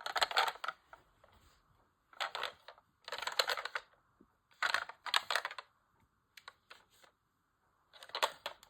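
Clicking, rattling plastic noises in about five short bursts with pauses between: a plastic toy ambulance being handled.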